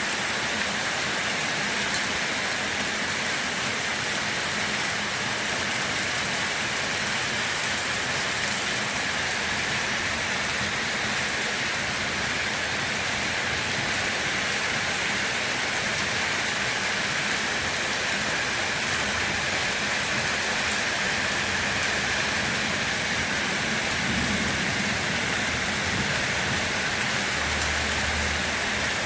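Steady rain falling, an even hiss of many drops with no pause or change.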